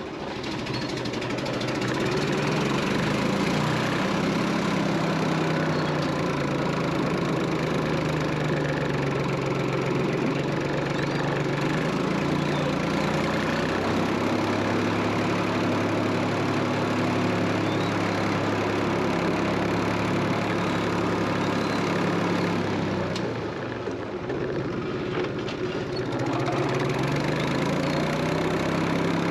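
Engine running at a steady speed, its pitch shifting slightly now and then, with a short drop in level about three quarters through.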